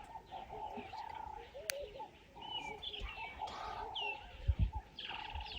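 Several wild birds calling at once: short chirps and whistled notes over repeated lower calls. A sharp click comes about two seconds in, and a few low thumps come near the end.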